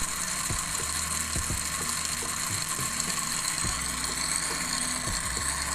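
A small motor-driven mechanism running steadily: a constant hiss with a low hum that drops in and out, and light irregular clicks.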